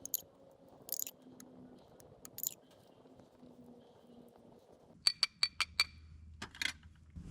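Pizza sauce being spooned and spread onto dough: a few soft scrapes, then about five quick ringing clinks of a utensil against a hard container a little after halfway, and a couple more near the end.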